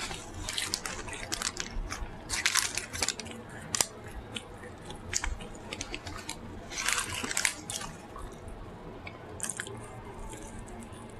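Close-up eating sounds: wet chewing and lip-smacking, in several bursts of rapid mouth clicks with scattered single clicks between.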